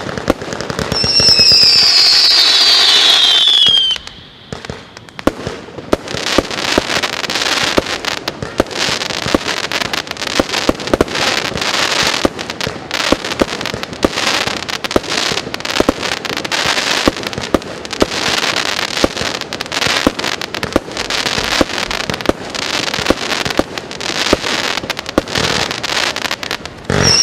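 A 200-shot 20 mm firework cake firing. A whistling shot falls in pitch for about three seconds near the start, then a long, dense run of rapid pops and crackles follows.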